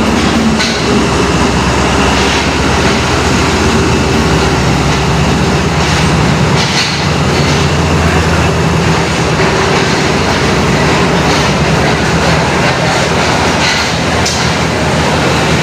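ZCU30 diesel-electric locomotive's engine running steadily as the train moves on the rails, with the clatter of the train's wheels.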